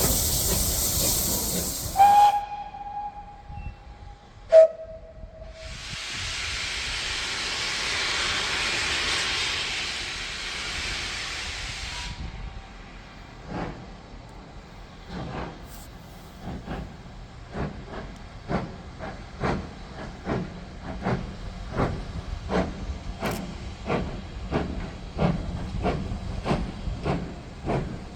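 Steam locomotive pulling away: a loud hiss of steam, two short whistle blasts (the second briefer and lower), a spell of hissing from the cylinder drain cocks, then chuffing exhaust beats that quicken from a little over one to about two a second.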